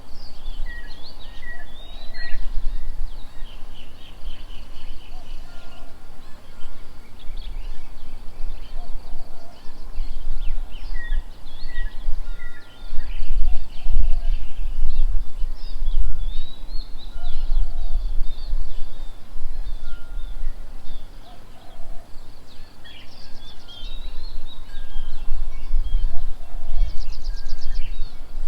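Several small birds chirping and trilling in a mixed chorus. Under them a gusting low rumble, wind buffeting the microphone, rises and falls and is the loudest part, strongest around the middle.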